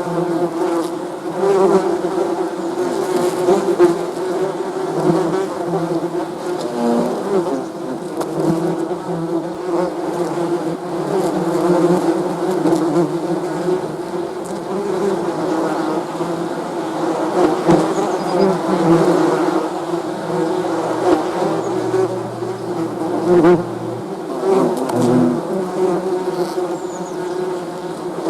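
Many bees buzzing together in a steady, dense drone, the overlapping buzzes wavering in pitch as individual bees come and go.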